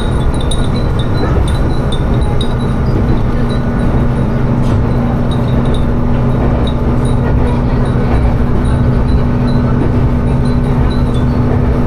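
Interior of a Tsugaru Railway diesel railcar running along the line: steady engine hum and wheel and rail noise. Glass furin wind chimes hung in the car tinkle in short, irregular high rings.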